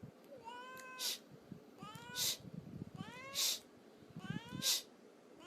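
Cat meowing four times, about a second apart, each call rising in pitch and followed by a brief hissing noise.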